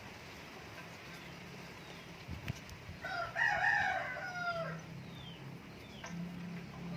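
A rooster crows once, about three seconds in, a call of under two seconds that drops in pitch at the end. A few short, faint bird chirps follow.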